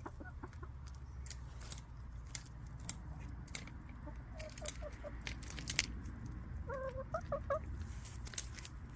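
Domestic hens clucking softly, a few short calls about four seconds in and a clearer run of clucks around seven seconds, among scattered sharp clicks and crackles over a steady low rumble.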